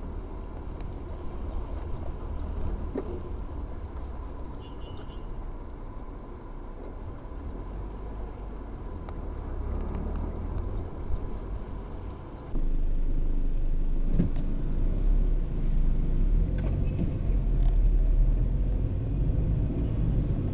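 Road vehicle noise: a steady low engine and traffic rumble. About twelve seconds in it switches abruptly to a louder, more muffled rumble with a few short knocks.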